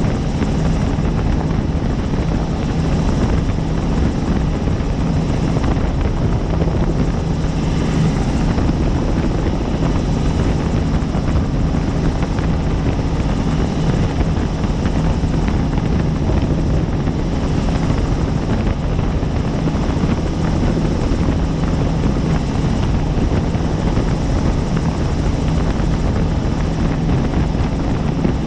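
Helicopter in flight heard from inside the aircraft: a loud, steady drone of rotor and turbine with a low hum that does not change.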